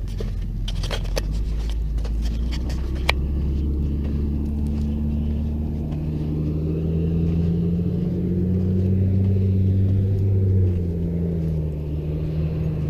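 An engine running steadily with a low hum, its pitch drifting slightly up and back down near the end, with a few sharp clicks in the first three seconds.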